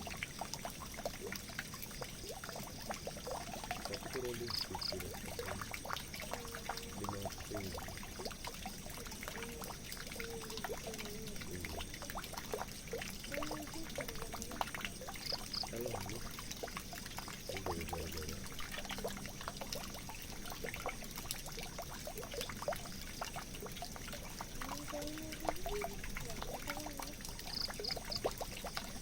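Water pouring steadily into a drain, with a constant spatter of small splashes and trickles. A faint, brief high double chirp comes three times, roughly every eleven seconds.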